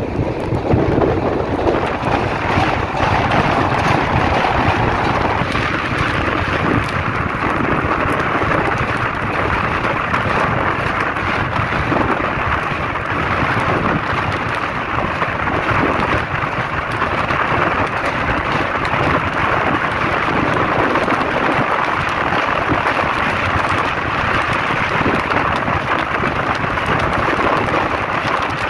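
Lichchavi Express passenger train running across a steel truss bridge, heard from its open doorway: a steady, loud din of wheels on the bridge mixed with wind on the microphone.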